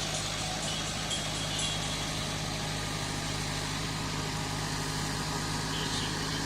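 Massey Ferguson MF 385 tractor's diesel engine running steadily, a low even hum with no change in speed.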